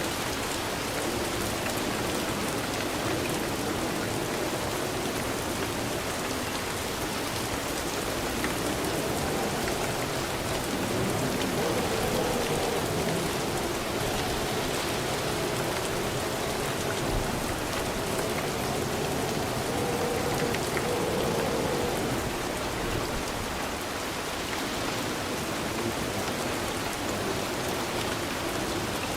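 Steady rain falling and pattering on surfaces, a little louder in the middle.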